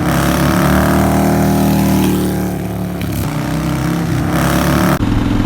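Motorcycle engine revving, its pitch rising and then falling, cutting abruptly about five seconds in to a steadier engine drone.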